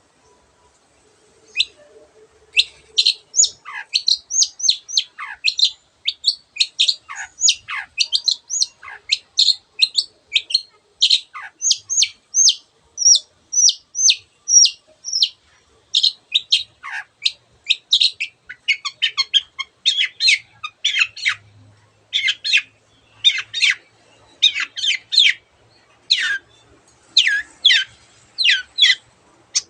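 Long-tailed shrike in full song: a fast, unbroken run of short, sharp notes, some sweeping steeply downward, mixing in imitations of other birds' calls. It starts about a second and a half in.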